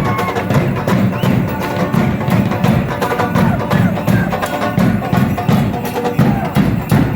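Percussion for a traditional Mexican danza: a drum beats a fast, steady rhythm of about four beats a second, with sharp rattle-like clicks over it.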